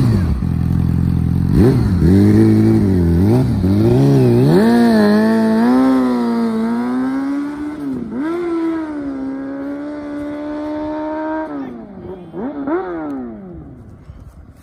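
2010 Yamaha R6's inline-four engine revving in short blips, then accelerating hard with its pitch climbing and dropping sharply twice as it shifts, holding a steady note in between. After a last blip it fades away as the bike moves off.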